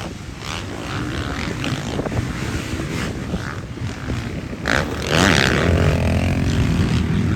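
Motocross bike engines running on the track, with one bike revving up and getting louder about five seconds in.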